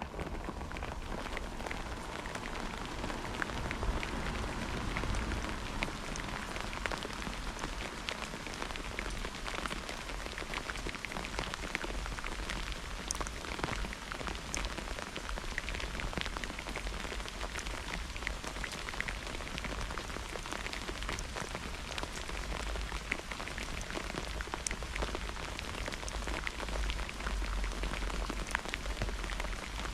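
Steady rain in a thunderstorm, with many separate drops striking close by over an even hiss, and a steady low rumble underneath.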